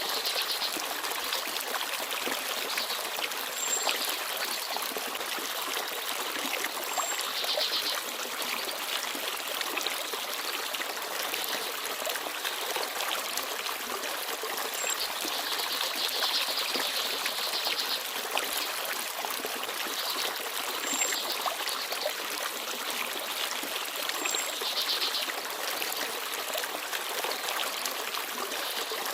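Small forest stream babbling steadily over stones, with a few short, high chirps from small birds scattered through.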